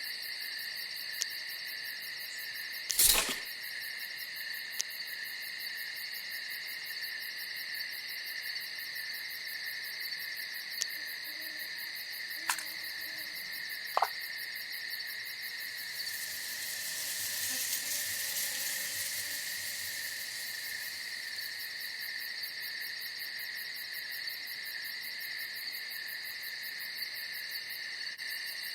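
A steady night chorus of chirping insects such as crickets, with three sharp knocks, the first about three seconds in being the loudest. A soft rush of noise swells and fades about two-thirds of the way through.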